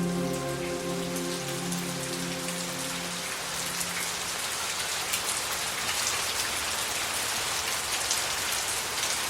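Steady rain falling, with many separate drops pattering. Sustained music notes fade out over the first few seconds.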